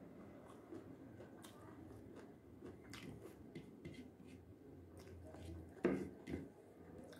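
Close-up eating sounds of a person chewing gundruk with fried soybeans and picking food from a paper plate by hand: many short mouth clicks and smacks, with two louder sounds about six seconds in.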